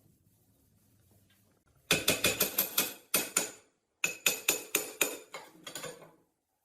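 A hammer striking metal in two quick runs of blows, about five a second, each blow ringing. The runs are split by a short pause about four seconds in.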